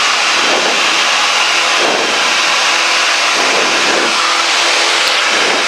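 Cessna 172K's four-cylinder Lycoming engine and propeller running steadily at full throttle in the climb after takeoff.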